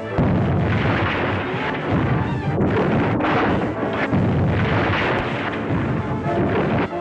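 Steam train rushing past with a loud, dense rumbling clatter that starts and stops abruptly.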